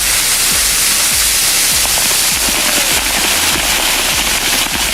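Dense crackling patter of freezing rain, steady throughout, over background music with a steady low beat.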